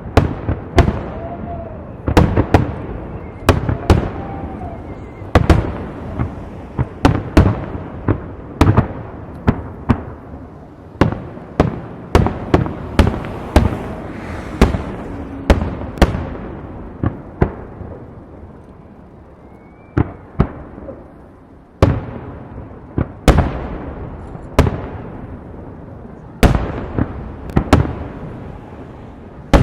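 Aerial firework shells bursting in rapid, irregular succession, each sharp boom followed by an echoing tail. The barrage thins out for a few seconds past the middle, then picks up again.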